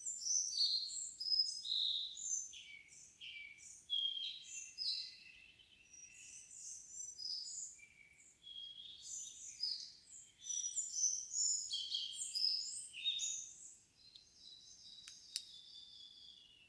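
A songbird singing a long, varied song of rapid high whistled and trilled phrases, with two faint clicks near the end.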